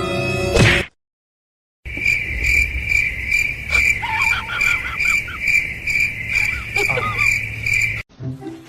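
Cricket chirping: a high, even chirp repeating about three times a second, starting about two seconds in and stopping abruptly near the end, with a few faint higher squeaks over it.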